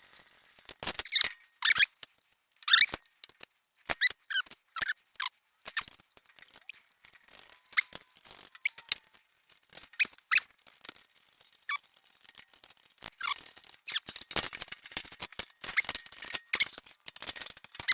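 Irregular series of short, high squeaks and clicks from hand work on a motorcycle lift, coming thicker near the end.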